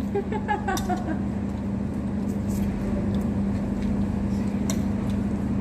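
Steady low machine hum with a constant droning tone, with a few light clicks over it.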